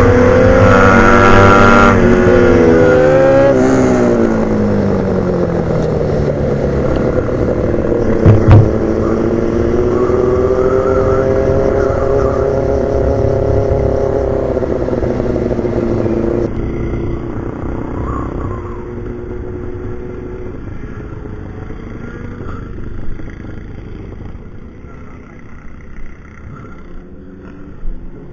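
Motorcycle engine heard on board, its revs dropping over the first few seconds, then holding a steadier, gently wavering note. After about sixteen seconds it drops in level and fades lower, with a single knock about eight seconds in.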